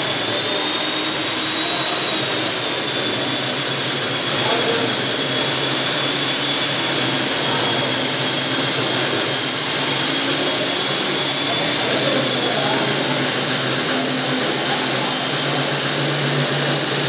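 Electric diamond core drill running steadily, with a high motor whine that wavers slightly in pitch over a continuous rushing noise.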